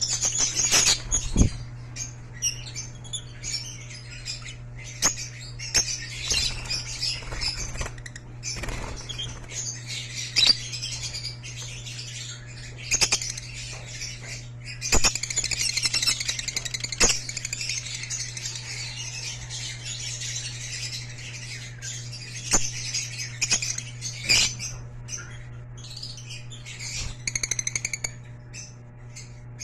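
Lutino lovebirds chirping and chattering without pause, with wing flaps and sharp knocks from the cage, over a steady low hum.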